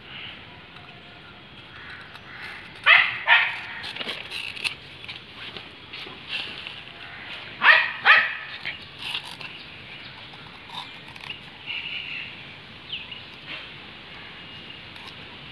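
A dog barking: two double barks, about five seconds apart, with a few fainter sounds between.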